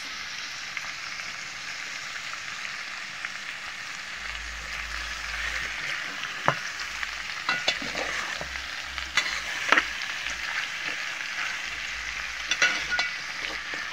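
Chicken pieces sizzling with fried onions in a metal pot, with a steady frying hiss. A metal spoon stirs them, scraping and clinking against the pot several times in the second half.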